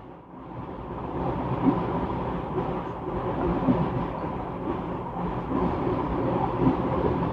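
Steady low rumbling noise with no clear single event, rising over the first second and then holding even.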